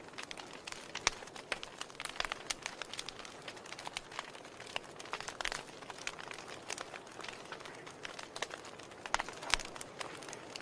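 Wood fire burning in a fireplace, crackling with many irregular sharp pops and snaps over a low steady hiss.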